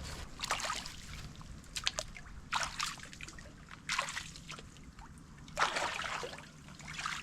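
River water sloshing and splashing against a small boat being tried out, in about five irregular bursts, the longest about two-thirds of the way through, with a few light knocks about two seconds in.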